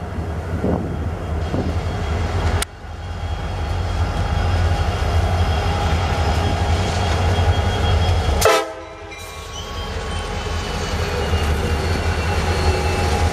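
CSX freight train's diesel locomotives rumbling past at close range, with steady horn tones sounding above the engines. The sound cuts out briefly twice, about two and a half and eight and a half seconds in.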